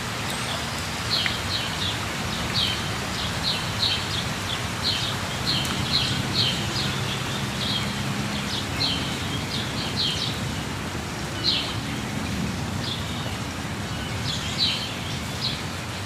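Steady rush of a waterfall, with a bird repeatedly giving short, high chirps about once or twice a second over it.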